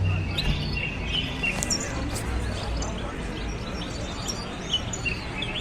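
Many caged songbirds chirping and twittering together, short overlapping calls, over a murmur of background voices.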